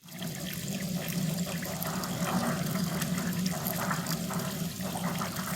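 Running water splashing steadily into a koi pond, with an irregular trickle over a steady low hum.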